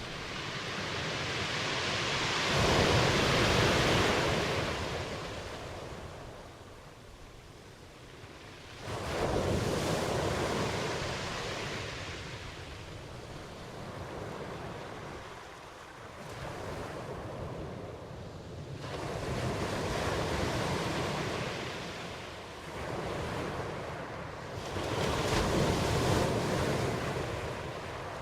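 Ocean waves breaking and washing in, in slow surges that swell and fade every several seconds.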